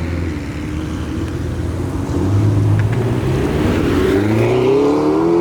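Performance car engine moving off at a low, steady note for the first few seconds, then accelerating, its pitch climbing steadily through the last couple of seconds.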